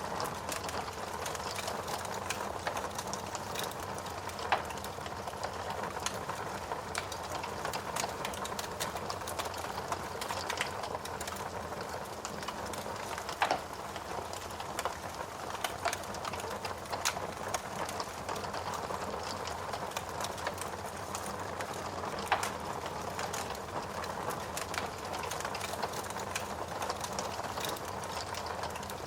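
Wood fire burning in a fireplace: logs crackling with frequent small snaps over a steady hiss, and a few louder pops spread through it.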